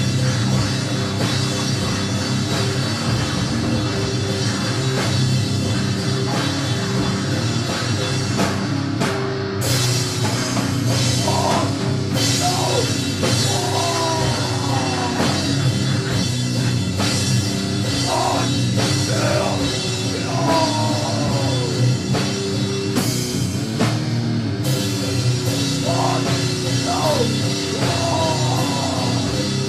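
Loud, dense doom-metal noise jam: distorted guitars and drum kit droning on, with wavering, gliding tones and bursts of harsh hiss laid over it.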